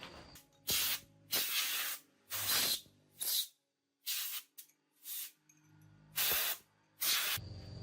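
A series of short spray bursts, about nine, each under a second long, with brief pauses between them.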